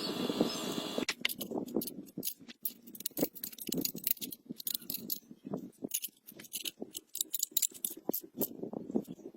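A short machine whir that stops about a second in, then irregular clicks, taps and short scrapes of hand work with tools on metal parts.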